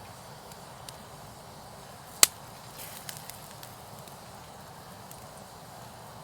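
Wood campfire crackling, with one sharp, loud pop about two seconds in and a few small ticks after it.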